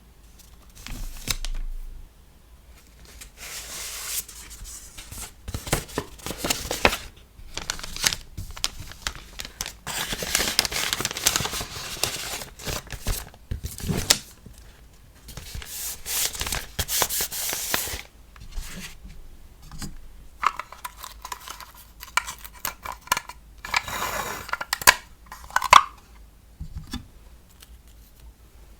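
Hands handling paper and plastic packing materials for a sticker order, in short bursts and longer sliding strokes. A little past two-thirds of the way through comes a squeaky, pitched stretch lasting about five seconds.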